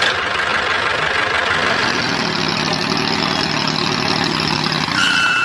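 A mini tractor's engine running steadily at idle. About five seconds in, a steady electronic tone of two pitches comes in briefly.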